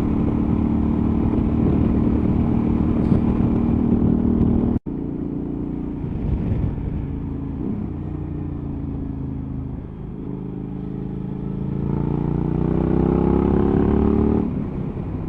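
Suzuki V-Strom 1000's V-twin engine running under way on the road, steady at first. After a momentary break the engine note dips, then climbs steadily as the bike accelerates, and falls away near the end as the throttle is rolled off or a gear is changed.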